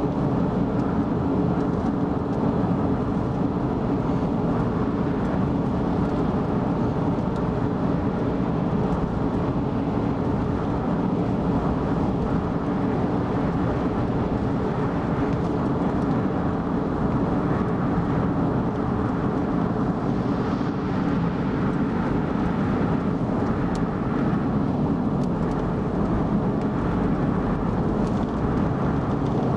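A car driving at expressway speed: steady tyre and engine noise that stays level throughout.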